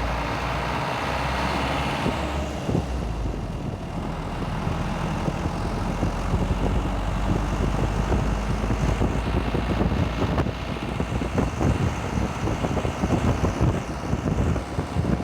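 Truck engine running as the truck drives off, heard from on board, with a rough rushing rumble that grows louder and more uneven from about six seconds in as it picks up speed.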